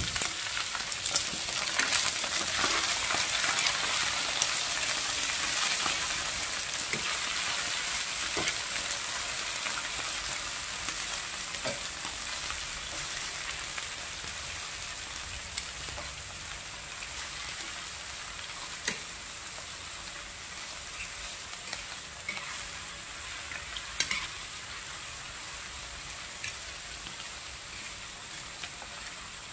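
Eggplant and lemon basil stir-fry sizzling in a nonstick frying pan while being turned with tongs, with occasional sharp clicks of the tongs against the pan. The sizzle is loudest in the first few seconds and gradually dies down.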